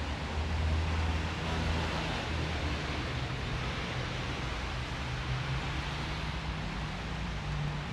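City street in the rain: a steady hiss of rain and wet tyres with the low hum of vehicle engines running and passing.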